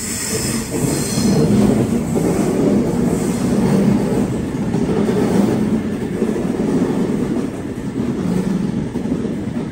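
Sydney Trains H set (OSCAR) double-deck electric train running into the platform and slowing past at close range, a steady loud rumble of wheels on rail. High squealing tones sound near the start and fade within a second or two.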